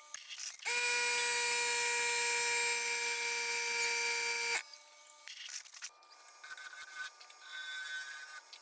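A power tool running with a steady whine for about four seconds, starting and stopping abruptly.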